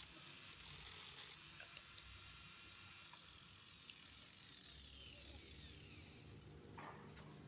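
Near silence: faint workshop room tone with a low steady hum, a faint whine falling slowly in pitch through the middle, and a couple of tiny ticks.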